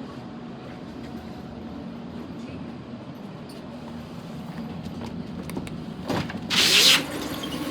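Sydney Trains Waratah electric suburban train with a steady low hum, and a short, loud burst of air hiss about six and a half seconds in, just after its doors have closed.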